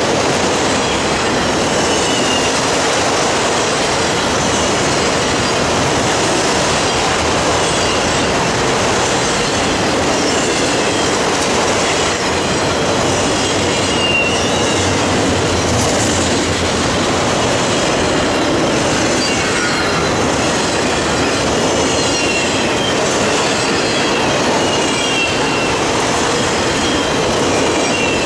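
Multilevel autorack freight cars rolling past close by: a steady, loud rumble and rattle of steel wheels on rail, with short high wheel squeals every few seconds.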